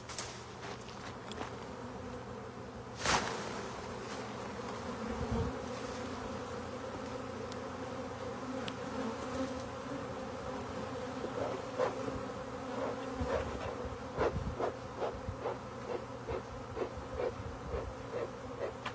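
A honey bee swarm buzzing: a steady hum from thousands of bees in flight. A sharp knock comes about three seconds in, and in the second half a run of short thumps about twice a second.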